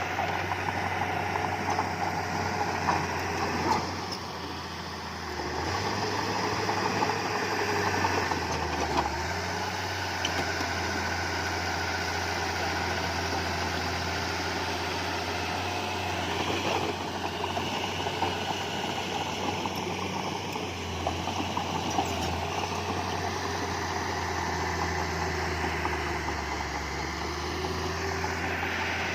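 Diesel engine of heavy earthmoving equipment running steadily, with a short dip in level about four seconds in and scattered clanks throughout.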